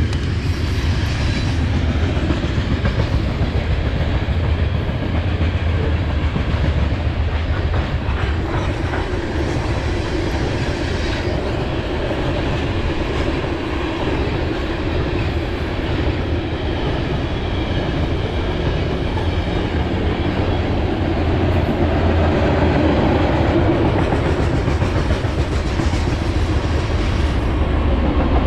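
Freight train's cars rolling past at a steady pace: continuous rumble with the clickety-clack of wheels over the rails.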